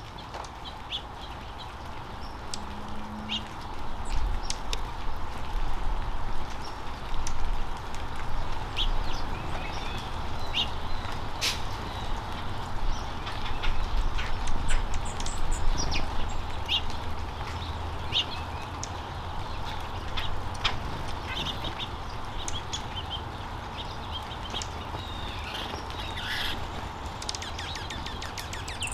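Birds at a feeder calling, with many short chirps scattered throughout, over a steady low rumble.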